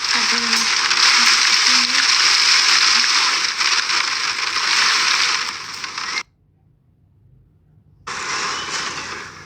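Heavy hurricane rain pouring down in a steady loud hiss. About six seconds in it cuts off suddenly for about two seconds, then comes back a little quieter.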